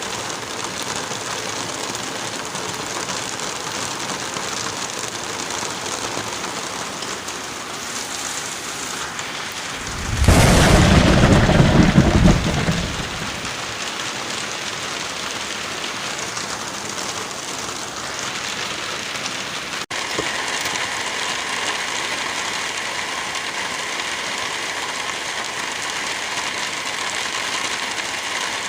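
Steady hiss of light rain and wind in a forest. About ten seconds in, a loud low rumble lasts about two seconds, then the steady rain returns; a little before the end, the sound cuts abruptly to a slightly different steady rain hiss.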